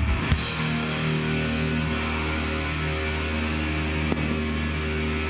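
Live band music: drum hits stop just after the start and a distorted electric guitar chord rings on, held steady.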